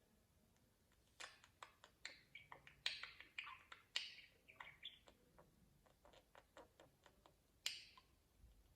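Pet budgerigars giving quiet short chirps mixed with clicks, a busy run of them starting about a second in, with a louder chirp near the end.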